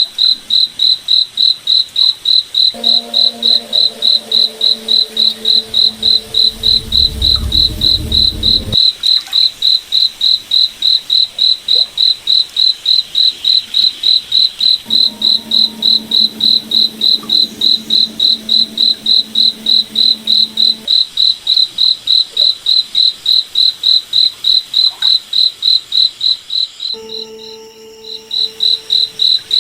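Crickets chirping in an even, steady rhythm, about three high-pitched chirps a second. A low droning hum comes and goes twice, deepening into a rumble once, and the chirping breaks off briefly near the end.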